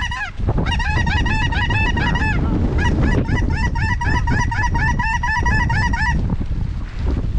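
Many lesser snow goose calls, rapid overlapping honks, with a short break about two and a half seconds in; the calling stops about six seconds in. Wind buffets the microphone throughout.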